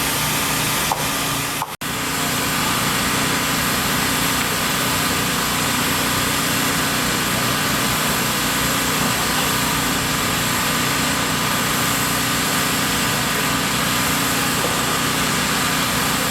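An engine running steadily at a constant speed, with a brief dropout in the sound just before two seconds in.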